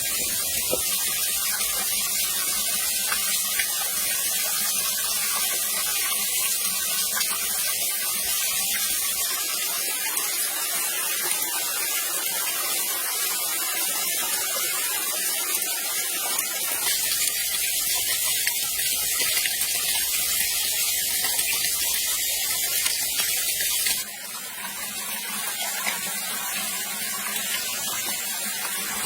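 Waterfall water rushing and splashing in a steady hiss, dropping a little in level about 24 seconds in.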